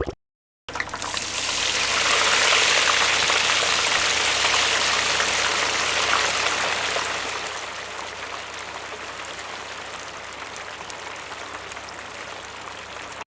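An edited-in sound effect of steady rushing hiss that swells over the first couple of seconds and drops to a lower, even hiss about seven seconds in. It starts and ends with a cut to dead silence.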